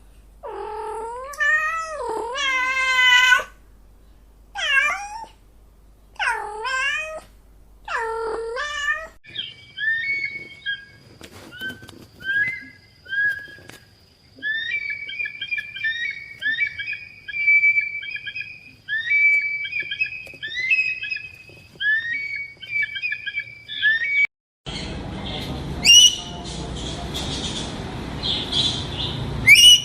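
A domestic cat meowing about five times, drawn-out meows that rise and fall in pitch. After about nine seconds it gives way to a bird's run of short, high chirping calls, and near the end to a noisier stretch with a few sharp bird cries.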